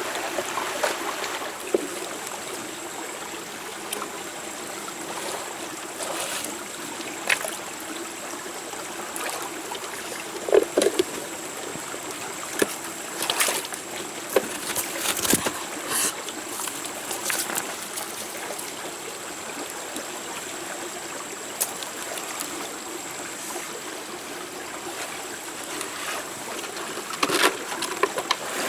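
Running water, like a stream, flowing steadily, with a thin steady high tone and scattered clicks and knocks, most of them in the middle and near the end.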